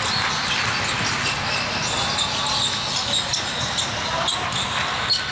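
Basketball game sounds: a ball bouncing on the court amid a steady hum of background voices, with many short knocks and squeaks scattered throughout.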